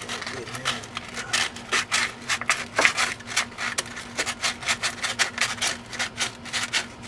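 Rapid back-and-forth scraping on rusty metal, several quick strokes a second, as rust is scrubbed off by hand.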